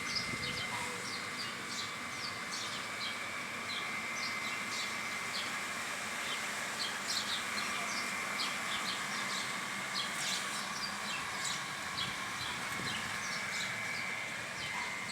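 Many small birds chirping in quick, scattered short calls, over a steady high-pitched drone.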